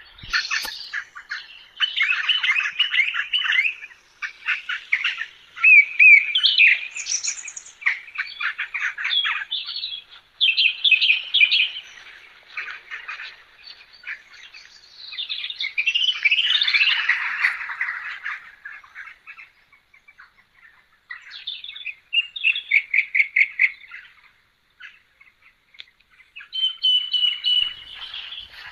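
Birds chirping and calling in repeated bursts of quick, high notes and short trills, with brief pauses between phrases.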